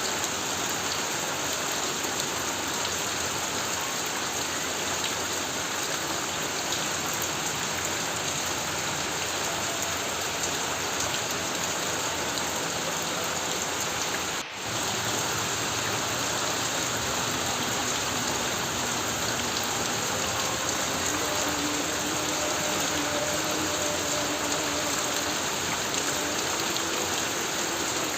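Heavy rain falling steadily on a corrugated tin roof, an even, dense patter with a brief dip in level about halfway through.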